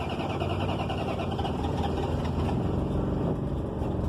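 Carbureted engine of a Dodge Charger idling steadily through a new Magnaflow exhaust, just after starting. The owner puts its running down to carburetor problems.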